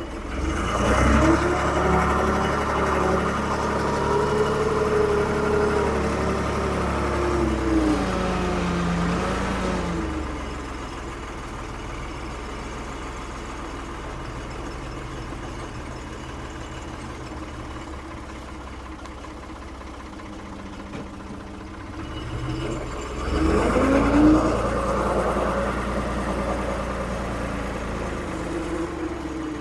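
Ford 550 backhoe's diesel engine revving up about a second in and holding high revs, its pitch wavering as if under working load, then dropping back to idle about ten seconds in. It revs up again a little after twenty seconds and stays up.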